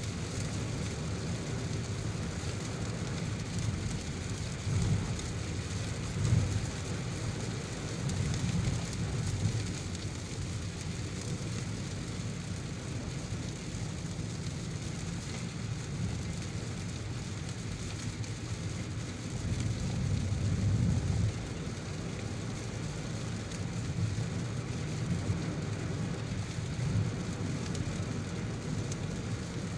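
Heavy rain heard from a car on the move: a steady wash of rain and road noise, with low rumbles that swell up twice, first a few seconds in and again about two-thirds of the way through.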